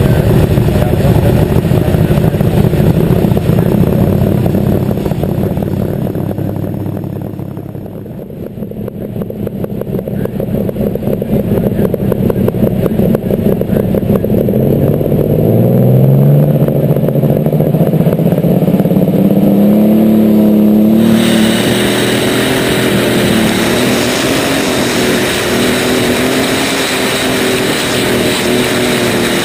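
Light super stock pulling tractor's engine heard close from on board: running low at first, then revving up with a rising pitch from about halfway. It is held at high revs with a loud hiss joining in about two-thirds of the way through, and drops off at the very end.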